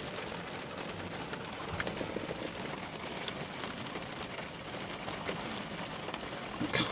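Light rain pattering on a vehicle as a steady hiss, with scattered drop ticks and one sharp tap near the end.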